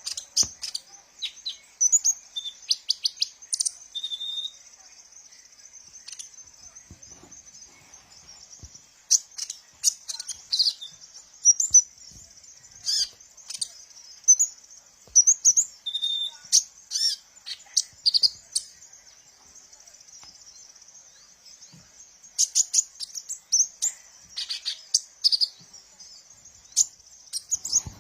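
A sunbird of the kind Indonesian bird keepers call 'kolibri ninja' singing: quick clusters of sharp, high chirps and short trills, broken by pauses of a few seconds. A faint steady high hiss runs underneath.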